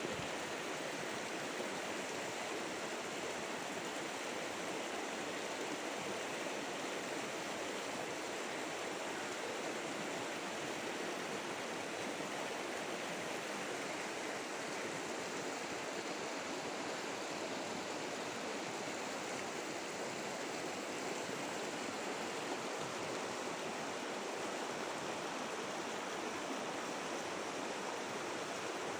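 Flowing water rushing steadily and evenly, with no breaks or other events.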